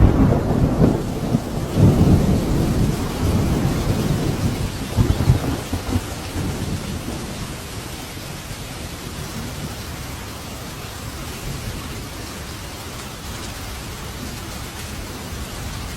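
Thunder rumbling over steady heavy rain, the rumble surging again about two and five seconds in, then fading away after about seven seconds to leave only the hiss of the rain.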